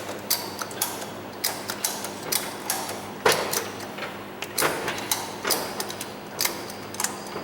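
Scattered metal clicks and clanks of hand work on a car's front suspension, coming at an uneven pace. A sharper knock stands out about three seconds in.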